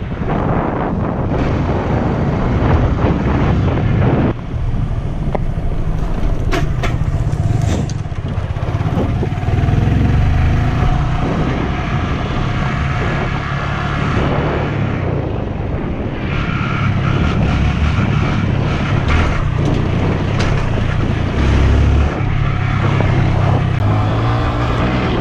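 Honda Grom's small single-cylinder engine running as the minibike is ridden, its note shifting up and down with the throttle.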